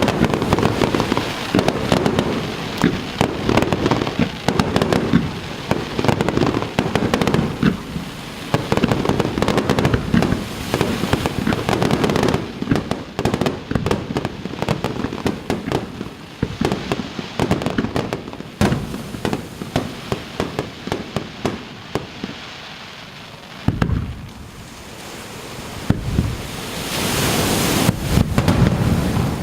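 Fireworks display: dense, rapid bursts and crackling one after another, easing into a short lull about three-quarters of the way through, then building again with a rush of hiss and fresh bangs near the end.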